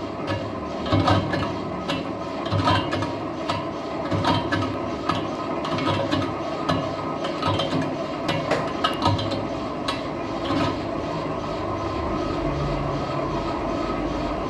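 Metal lathe running while a steel truck wheel rim is turned, with irregular metallic clicking and clattering over a steady machine hum. After about eleven seconds the clatter stops and a smoother, steady hum continues.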